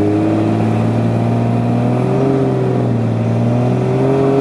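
Jeep Cherokee rock crawler's engine held at raised revs under load as it climbs a rock ledge, its pitch creeping up slowly. A whine rides on top, rising and falling.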